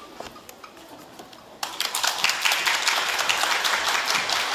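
Audience applause, breaking out suddenly about a second and a half in after a few scattered knocks, then going on steadily.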